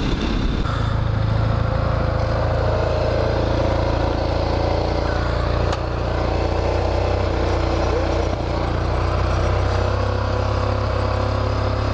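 Two single-cylinder four-stroke dirt bikes, a KTM 500 EXC-F and a Honda XR650R, running steadily in street traffic, mostly idling at a stop.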